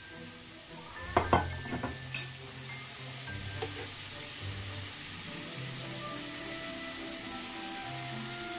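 Hot dogs frying in oil in a cast iron skillet, a steady sizzle, with a few sharp clicks about a second in.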